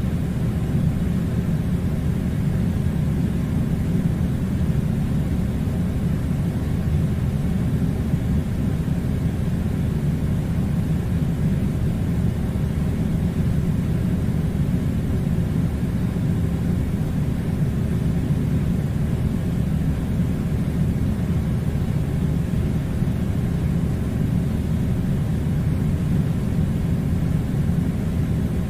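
Air conditioner running: a steady low rumble with a fainter hiss above it, unchanging throughout.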